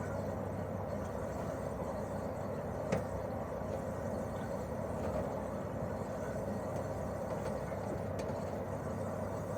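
Daikin R28RMV mini-split outdoor unit running steadily in cooling mode: its twin-cylinder swing compressor and propeller fan give a steady hum. A short click comes about three seconds in.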